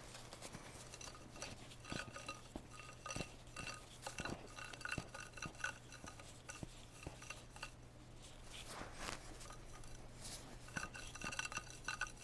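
Spraying drone's brushless motor turned slowly by hand, giving a faint scratchy clicking with light metallic clinks in bunches. This is an abnormal noise, with the motor due for overhaul.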